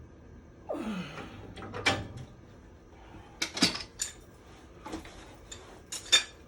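Sharp knocks and clatters of hard objects being handled, about half a dozen, the loudest near the end, with a short falling squeak about a second in.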